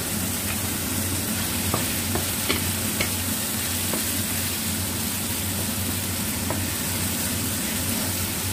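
Chicken pieces sizzling steadily as they stir-fry in a little oil in a non-stick frying pan, with a wooden spatula scraping and knocking against the pan a few times.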